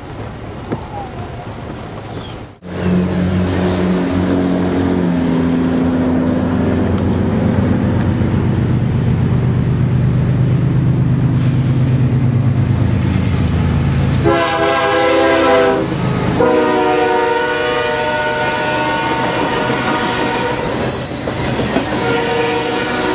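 A couple of seconds of rain and wind noise heard from inside a car, then an abrupt change to an approaching CSX freight train's diesel locomotives running with a steady low drone. About fourteen seconds in, the locomotive sounds its multi-chime horn in a short blast, then a longer one, and a last short one near the end, as refrigerated boxcars roll past with wheel clatter.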